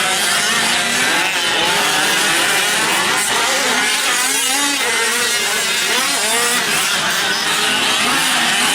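Several 5th-scale RC trucks' small two-stroke gas engines racing at once, their overlapping buzzing pitches rising and falling as they rev and back off around the track.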